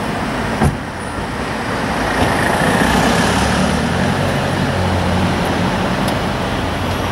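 Lamborghini Aventador's 6.5-litre V12 idling steadily, with a single thump about half a second in.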